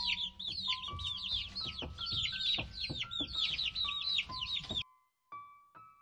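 Domestic chicken chicks peeping, many short, high, falling peeps overlapping several times a second, with piano notes underneath. The peeping cuts off suddenly about five seconds in, leaving the piano.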